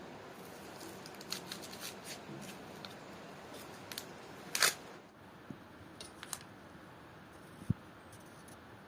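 Small handling sounds of food preparation: scattered light clicks and taps, one louder scraping stroke about halfway through, and a single low thud near the end.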